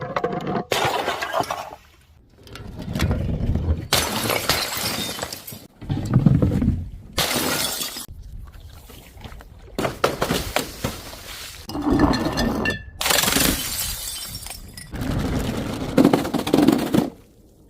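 Glass bottles shattering one after another, about eight separate crashes of breaking glass, each a second or two long with short quiet gaps between them; one break ends with a brief ringing tinkle.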